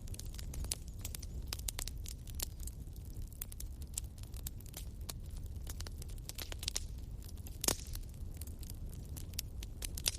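Wood bonfire burning, a steady low rumble of flames under irregular crackles and snaps of burning wood, with one louder pop about seven and a half seconds in.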